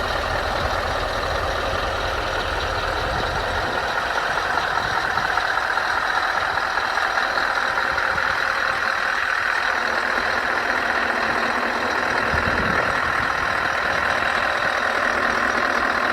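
Scania R560 truck's V8 diesel engine running steadily, its deep rumble easing about four seconds in.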